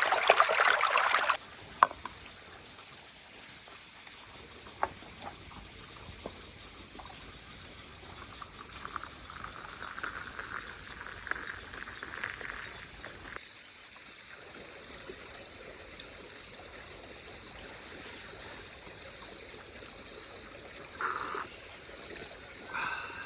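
Liquid pouring loudly for about the first second and stopping abruptly. Then a faint trickle of water over a steady high insect drone, with a few light clicks.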